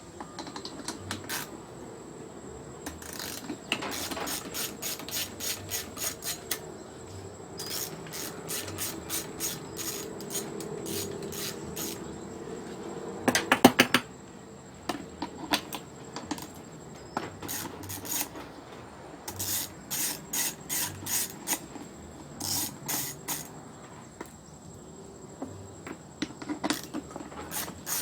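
Ratchet wrench clicking in short repeated bursts as a fastener on a Honda GC160 engine is worked loose, with a louder clatter about halfway through.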